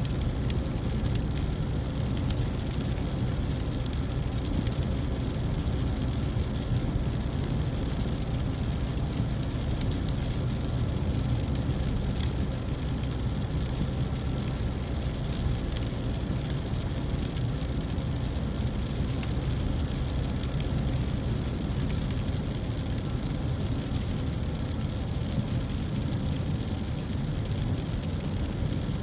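Car driving on a wet road: steady low road and engine noise with no change.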